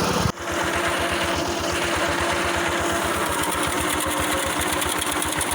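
Small tractor engine running steadily under load while driving a rotary mower through tall grass, with a brief sharp dip just after the start.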